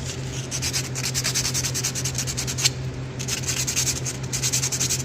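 Hand sanding of a metal engine part, with quick back-and-forth strokes of abrasive paper rasping in a few runs separated by short pauses, as carbon is cleaned off.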